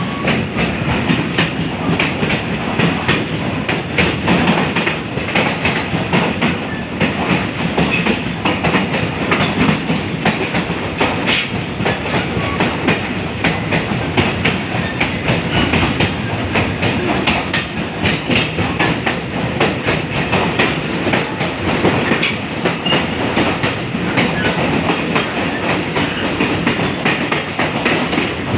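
Train running along the track: a steady, loud rattle and clatter of wheels and carriages on the rails.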